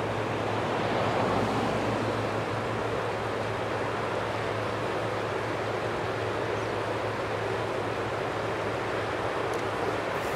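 Steady rushing noise of a twin-engine jet airliner's engines at takeoff power, swelling slightly about a second in.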